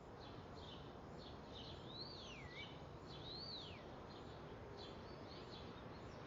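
Faint outdoor ambience with birds chirping. Two clear whistled calls stand out, each rising briefly and then sliding down in pitch, about a second and a half apart, over a steady low hiss.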